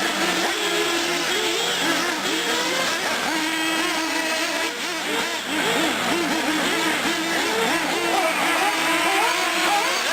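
Several small nitro engines of R/C short course trucks and buggies revving up and down as they race around, their overlapping pitches rising and falling constantly.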